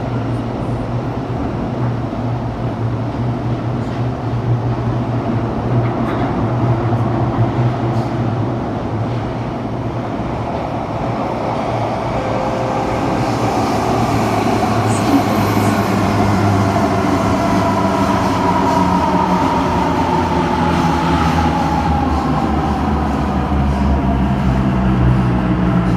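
Interior running noise of a CT251 metro train in a tunnel: a loud, steady rumble of wheels on rail that grows louder about halfway through. Near the end a motor whine falls in pitch as the train starts to slow for the station. The uploader reports badly flatted wheels on this car, which he calls 'earthquake flat wheels'.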